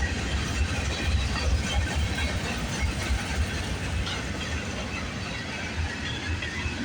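Manifest freight train's cars rolling past on the rails, a steady low rumble.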